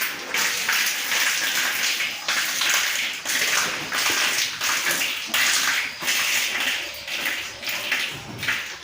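Milk squirting into a pail in rhythmic spurts as a cow is milked by hand.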